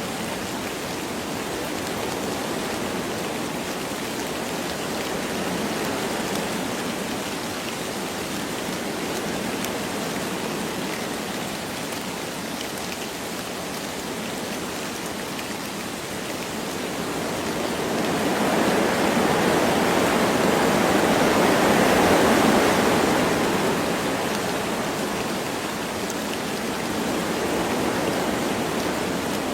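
Wind blowing through forest trees with light rain falling, a steady rushing that swells into a louder gust a little past the middle and then eases off again.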